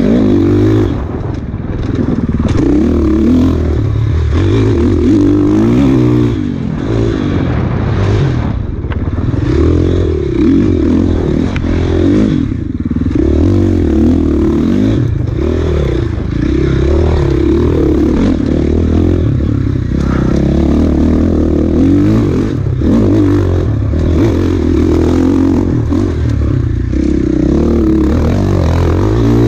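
Off-road enduro motorcycle engine being ridden hard, its pitch rising and falling every second or two with constant throttle and gear changes.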